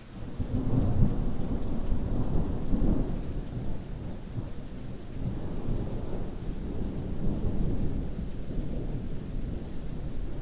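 Heavy rain falling steadily, with a deep roll of thunder that builds within the first second and swells again about seven seconds in.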